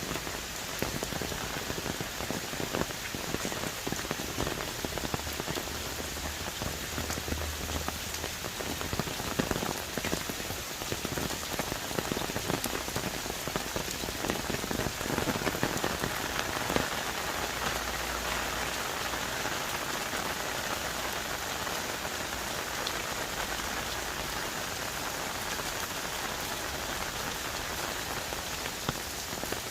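Heavy tropical rain falling on rainforest trees and leaves: a dense, steady hiss with many separate drop hits close by.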